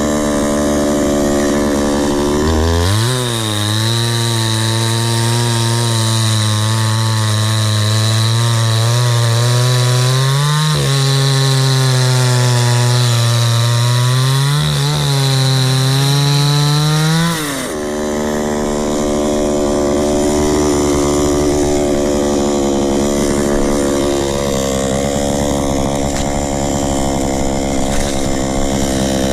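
Chainsaw engine running, then opened to full throttle about three seconds in for a long cut through a log, with a high chain whine. The revs sag twice as the chain bogs in the wood, and after about fifteen seconds of cutting the engine drops back to a lower steady run.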